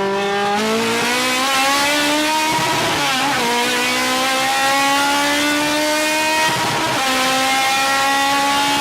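Car engine pulling hard through the gears. Its pitch climbs steadily, dips briefly at an upshift about three seconds in and again near seven seconds, then climbs again.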